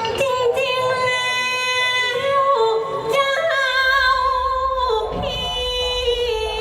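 A high voice singing a Thai likay melody in long held, wavering notes with ornamental turns between them, with little or no accompaniment.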